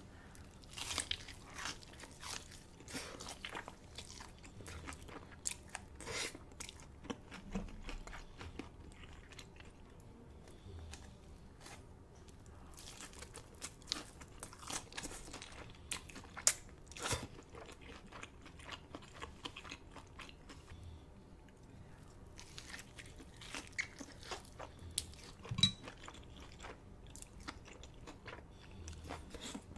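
Close-miked eating sounds: a person biting into crunchy food and chewing, with irregular crisp crunches, a few of them much louder than the rest.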